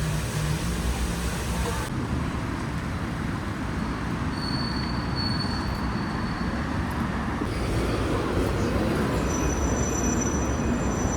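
Train running: a steady low rumble, with a thin high whine about four seconds in and again near the end.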